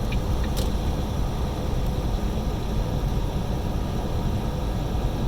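Steady engine and road noise inside a semi-truck's cab at highway speed.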